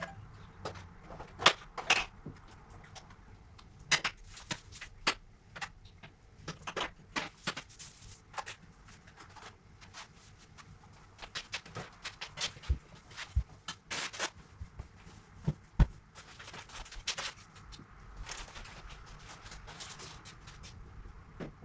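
Irregular light clicks and knocks of household objects being handled and set down during cleaning, some sharper than others.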